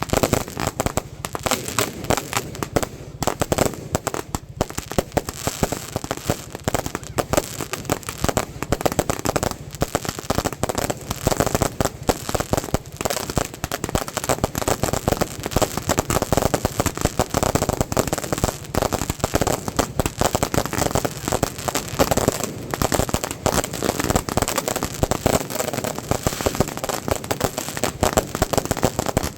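Fireworks or firecrackers going off, a dense, unbroken run of rapid cracks and pops.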